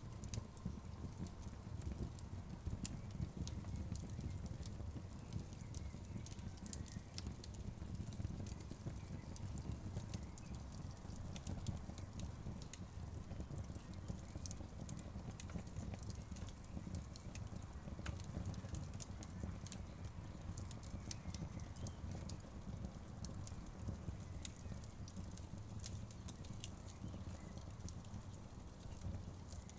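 Wood fire burning, with a steady low rumble and frequent sharp crackles and pops from the logs.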